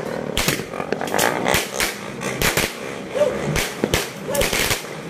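Aerial fireworks going off in an irregular series of sharp bangs and crackles, two or three reports a second.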